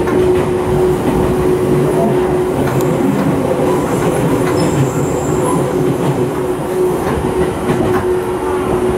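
Seibu 9000 series electric commuter train running at speed, heard inside the passenger car: a steady rumble of wheels on rail under a constant humming tone, with occasional clicks of the wheels over rail joints.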